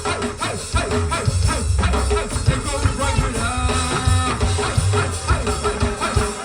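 Live gospel band playing an upbeat groove, with drum kit hits and a deep bass line under the other instruments.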